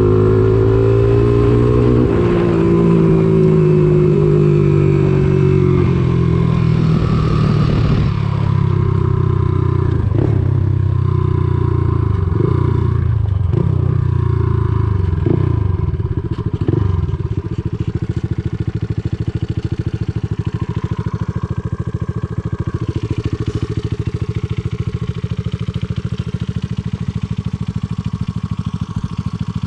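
Single-cylinder four-stroke engine of a Honda ATC200X three-wheeler running through an aftermarket CRF230 exhaust. Its speed rises and falls with several quick revs over the first half, then it settles into a steady, evenly pulsing idle.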